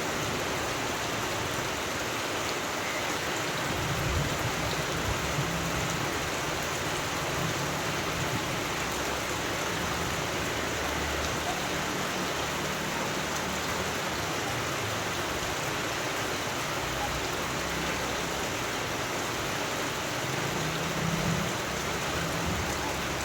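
Steady rainfall, an even hiss of drops with faint low rumbles now and then.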